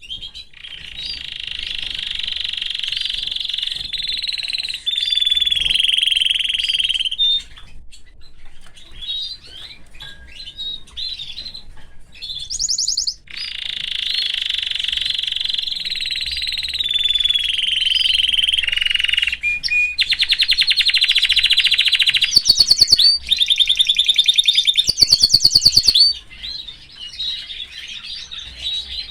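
Canary singing: long, rolling trills broken by short pauses, then fast, rapidly repeated notes about twenty seconds in, easing into softer twittering near the end.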